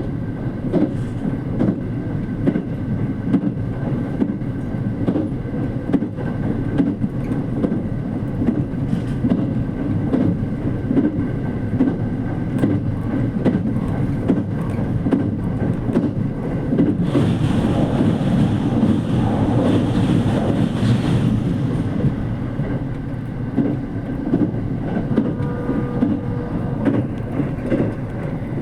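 Running noise heard from inside a JR Kyushu 787-series electric limited-express train at speed: a steady low rumble with wheel clicks over the rails. A louder rushing stretch lasts about five seconds past the middle.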